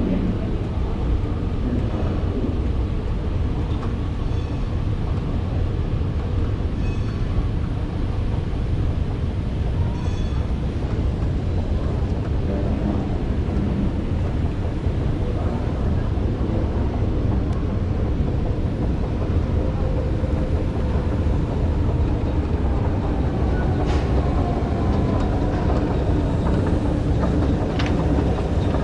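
Steady low rumble and noise of a ride in motion, with no break across the whole stretch and a few faint clicks near the end.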